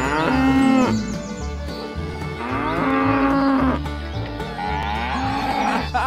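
Cows mooing: two long, drawn-out moos about two and a half seconds apart, over background music with a steady beat.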